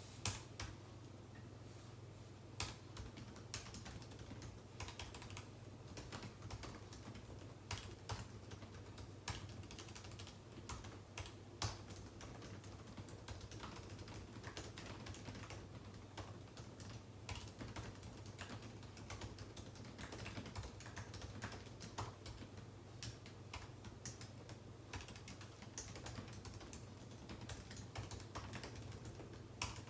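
Continuous typing on a computer keyboard: rapid, irregular key clicks with an occasional louder keystroke, over a steady low hum.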